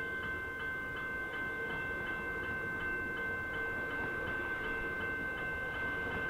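Railway level crossing warning bell ringing steadily at about three strikes a second, each strike ringing on, over a low background rumble.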